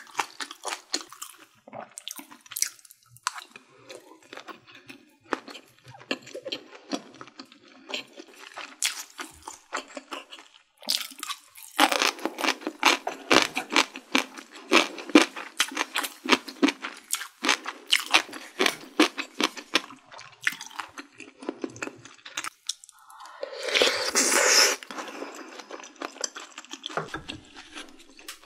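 Close-miked chewing of Korean blood sausage (sundae): many wet, clicky mouth sounds, coming thickest and loudest in the middle. A short noisy rush near the end.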